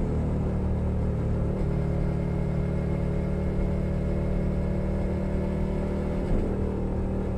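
2021 Suzuki SV 650's V-twin engine running through a Leo Vince Nero exhaust at steady riding revs, with a brief dip in pitch and a bump in level about six seconds in.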